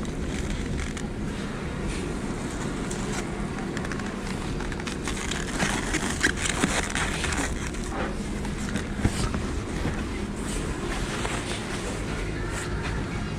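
Steady street traffic noise of passing cars, with a few scattered clicks and knocks.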